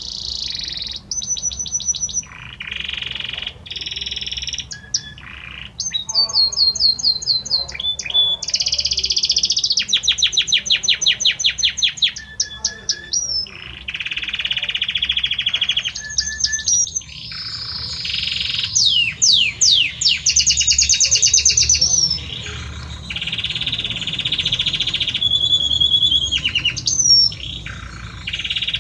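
Male Belgian canary singing its courtship song continuously: phrase after phrase of rapidly repeated notes alternating with smoother rolling trills, with short breaks between phrases.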